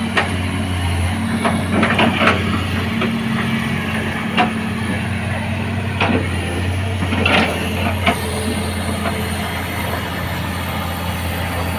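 Heavy truck's diesel engine running steadily at low revs, with several short, sharp noises scattered through.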